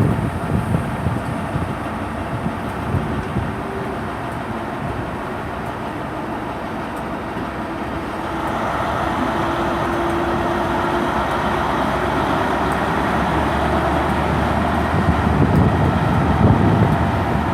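Class 43 HST diesel power car with an MTU engine, pulling out of the station. The engine runs steadily, then grows louder about eight seconds in and keeps building toward the end.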